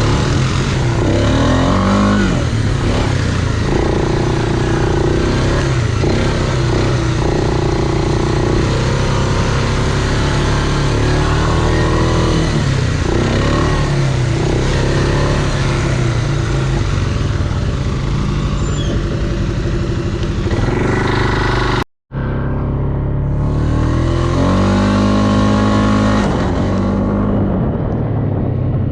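Off-road vehicle engines running with repeated rises and falls in revs over a steady low drone. The sound cuts out for a split second about two-thirds of the way through, then another rev swells and drops.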